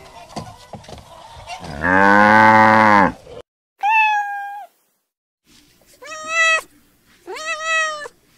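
A cow mooing once in a long low call, followed by a cat meowing three times.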